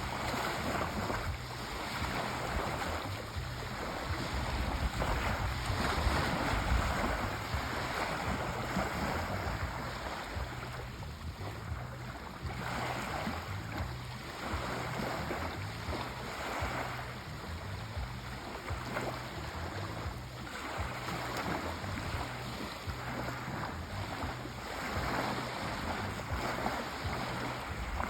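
Sea waves washing on a shore, a continuous hiss of surf that swells and eases every second or two.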